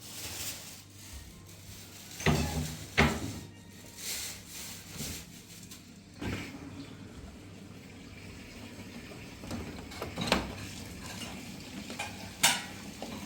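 Scattered knocks and clinks of kitchenware being handled, five or so short sharp strikes over a low steady background.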